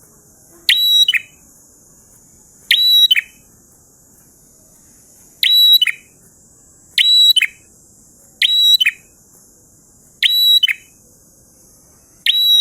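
A prinia (prenjak) singing loud, sharp, short phrases, each about half a second long, repeated roughly every one and a half seconds, about eight times.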